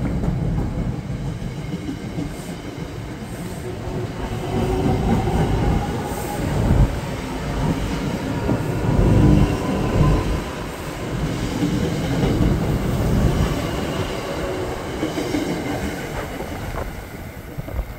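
NJ Transit electric commuter train pulling away along the platform: a steady rumble of wheels on rails with some clickety-clack, easing off near the end as the last car moves away.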